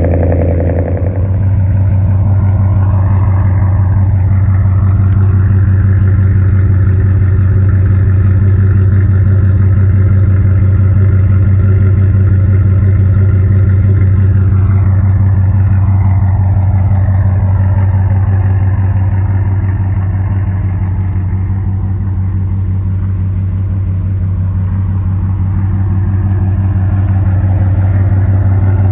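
Straight-piped Ram 1500's Hemi V8, breathing through long-tube headers and no mufflers, running at a steady speed with a loud, even, low drone. About a second in, the sound settles from a brighter, rougher note into that steady drone.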